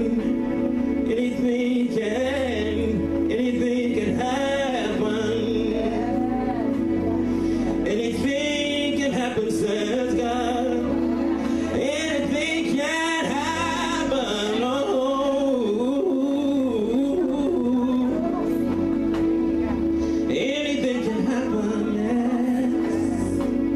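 Gospel praise-and-worship music: a voice singing a slow, winding melody over steady held chords.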